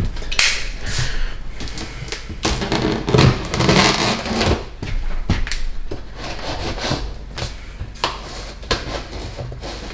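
A large cardboard shipping box being opened by hand: scattered knocks and clicks of the cardboard, with a longer stretch of scraping and rustling about three to four seconds in.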